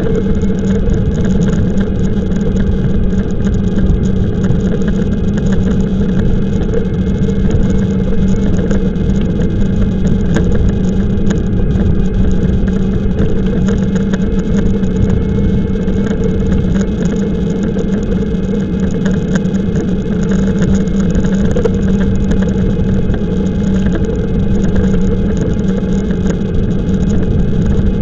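Steady riding noise while cycling on an e-bike: wind rumbling on the microphone, with a steady low hum over it.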